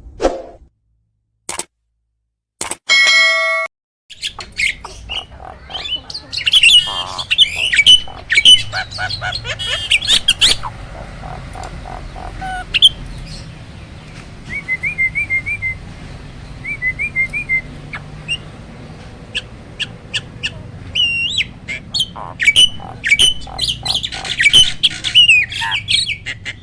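Hybrid starling (Asian pied starling crossed with black-winged myna) singing loudly: a varied run of whistles, quick trills and harsh chattering squawks, starting about four seconds in. Just before it, a short buzzy tone sounds once.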